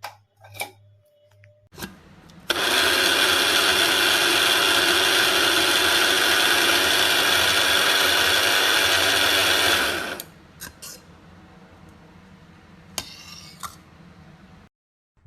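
BioloMix 300 W electric coffee grinder's motor running steadily at full speed for about seven and a half seconds, then switched off. A few clicks come before it starts, and a brief rattle follows near the end.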